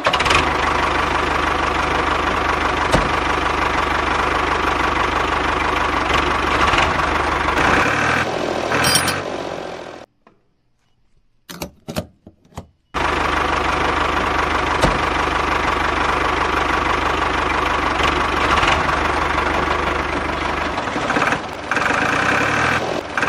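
Small engine-like motor of a DIY mini tractor running steadily. It cuts out for a few seconds midway, then runs on.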